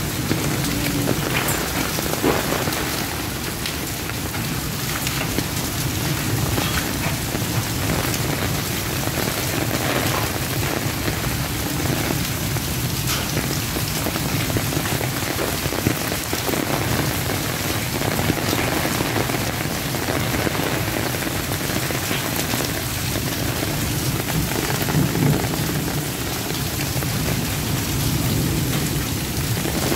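Heavy rain pouring steadily and splashing on hard ground and surfaces, with scattered sharp taps of drops striking close by.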